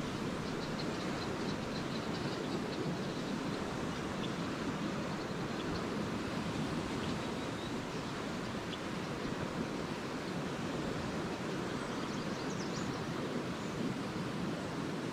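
Lake waves washing onto a sandy beach in a steady rush, with faint high chirps of swallows now and then, mostly in the first half and again near the end.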